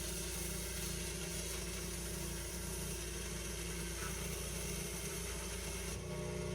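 Petrol pressure washer engine running steadily, with a high hiss over it.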